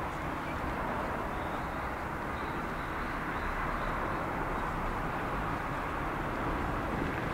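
A Meitetsu train running, a steady rumble of wheels on rail with no break.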